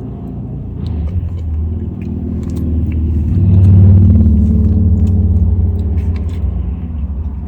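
Low rumble of a car engine, swelling to its loudest about halfway through and then easing off, with a few light clicks over it.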